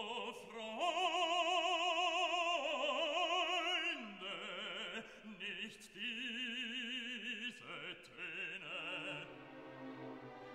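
Operatic singing with orchestral backing: a voice holding long notes with wide vibrato, fading toward the end.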